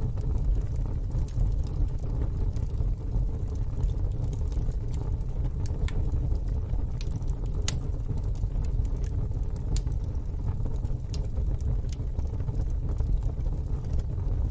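Fire burning in a fire pit: a steady low rumble with scattered sharp crackles and pops, one louder pop about halfway through.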